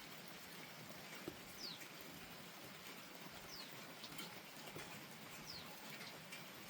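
Steady light rain with scattered drips, and a bird calling three times, a short high falling whistle about every two seconds.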